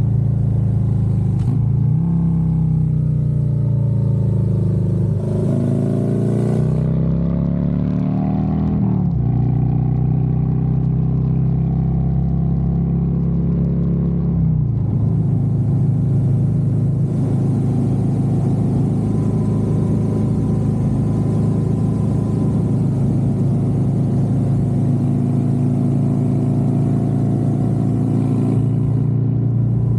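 Harley-Davidson Road Glide's V-twin engine under way, rising in pitch several times about a third of the way in as it accelerates, then running at a steady cruise. A rushing hiss joins about halfway through.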